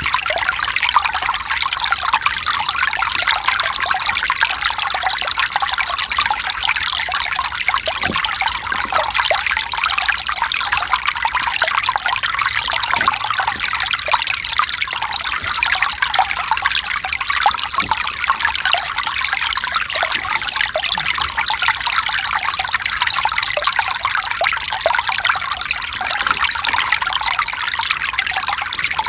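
Mountain stream running over rocks: a steady, even rush and trickle of water that does not change.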